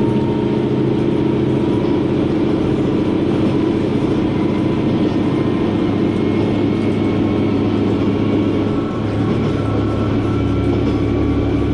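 Diesel railcar's engine and running gear heard from inside the cabin, a steady drone with the engine note changing about nine seconds in.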